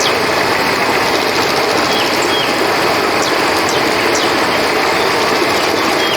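Steady rushing of flowing river water, with short high chirps recurring every few seconds above it.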